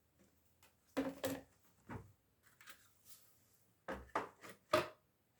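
A window frame being knocked and shifted into place: a handful of sharp wooden knocks and clunks, one cluster about a second in and another around four seconds in.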